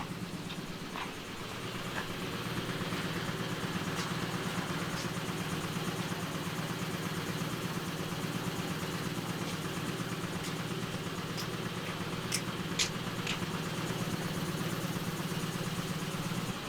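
Large truck's diesel engine idling steadily, getting a little louder about two seconds in, with a few sharp clicks near the end.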